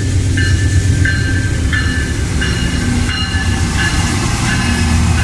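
Empty freight train of sand hopper cars rolling past: a steady low rumble, with short high-pitched squeals recurring about every two-thirds of a second.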